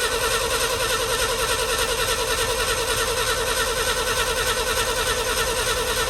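Starter motor cranking the 1966 International Harvester's BG 241 inline-six over steadily without it firing, with an even pulsing beat and a steady starter whine. The engine turns over nicely but gets no spark, which the owner puts down to bad ignition points.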